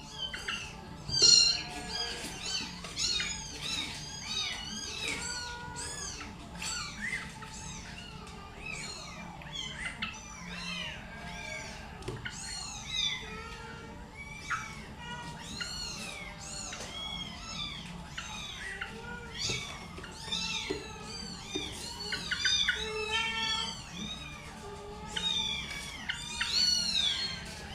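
Yellow-vented bulbul (trucukan) calling in a continuous run of short, rising-and-falling chirps, several a second.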